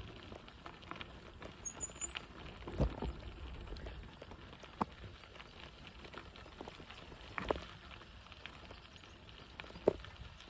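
E-bike rolling slowly over a loose gravel path: a low rumble from the tyres with a few sharp knocks and rattles as the bike goes over bumps.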